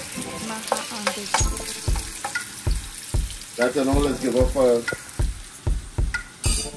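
Curry leaves and cumin seeds sizzling in hot oil in a nonstick pan, stirred with a spatula that knocks and scrapes the pan in quick, regular strokes. A person's voice is heard briefly in the middle.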